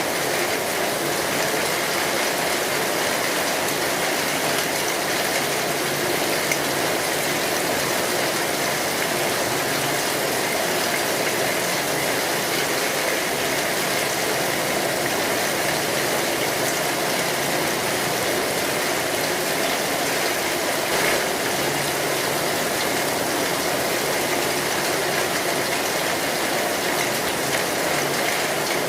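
Steady rain on a metal roof, an even patter, with a wood fire crackling now and then.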